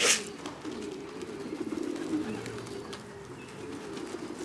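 Domestic pigeons cooing in the loft, a low warbling coo that carries on without a break.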